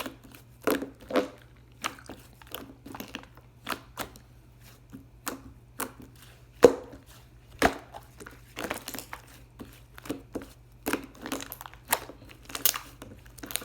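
Irregular short crinkles, clicks and taps, one to three a second, from something being handled at close range; one sharper click stands out about two-thirds of the way through.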